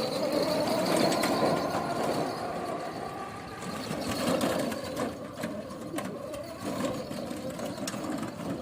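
A mini toy tractor's small motor whirring steadily, with scattered clicks and rattles.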